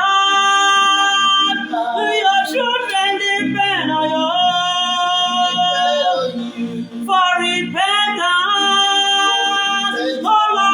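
Voices singing long, held notes of a worship song, the pitch bending and sliding between notes.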